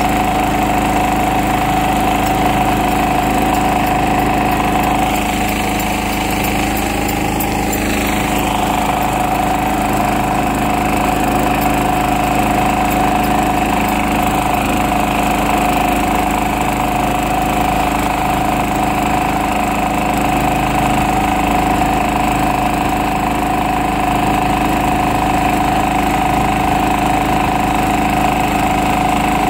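1973 Ingersoll garden tractor's engine running steadily at low throttle.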